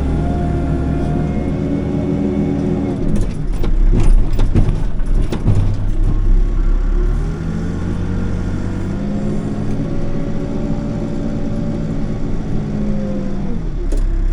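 Backhoe engine running steadily, with a burst of loud knocks and rattles about three to six seconds in, after which the engine speed rises and holds.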